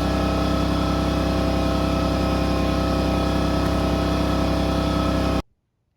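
A motor or engine running steadily at one even pitch, cutting off suddenly about five and a half seconds in.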